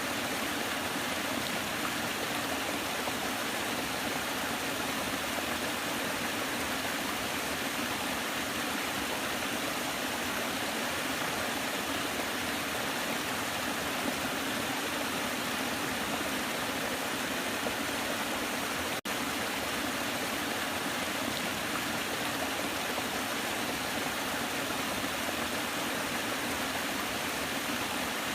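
Waterfall: a steady rush of falling water, an even hiss with little deep rumble. The sound breaks for an instant about two-thirds of the way through.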